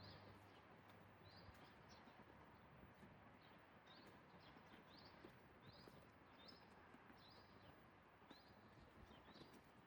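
Faint small bird chirping over and over, about two short chirps a second, over a quiet steady background hum.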